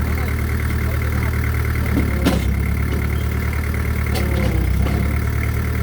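Excavator's diesel engine running steadily with a low hum and a faint steady whine, and a short sharp knock about two seconds in.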